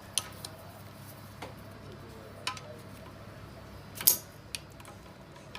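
Irregular sharp metallic clicks and clinks from tools and parts being handled during engine work, the loudest about four seconds in, over a low steady hum.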